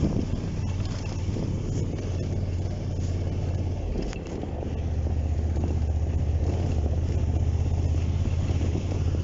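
Suzuki V-Strom motorcycle's V-twin engine running steadily under way, with wind noise. The engine note drops briefly about four seconds in, then carries on steady and a little louder.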